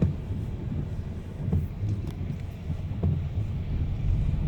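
Low, steady rumble of road and engine noise inside a moving car's cabin, with some wind noise.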